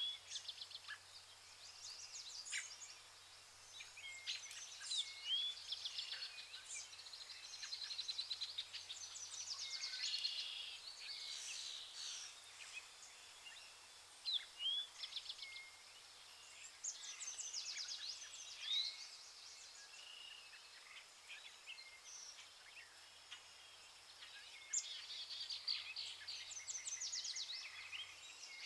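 Rainforest birds calling together: many overlapping chirps, quick trills and short rising and falling whistles, over a steady high hiss of forest ambience.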